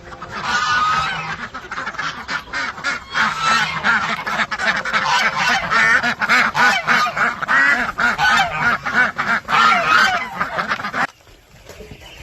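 A flock of waterfowl calling over one another in a loud, dense chorus that cuts off suddenly near the end.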